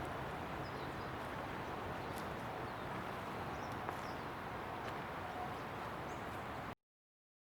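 Steady noise of distant freeway traffic, with a few brief, faint bird chirps over it, cutting off suddenly into silence near the end.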